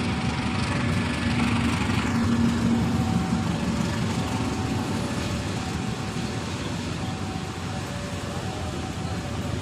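Passenger train rumbling over a level crossing, loudest about two to three seconds in and then slowly fading as it runs on. Throughout, the crossing's warning alarm sounds as a faint alternating two-tone signal.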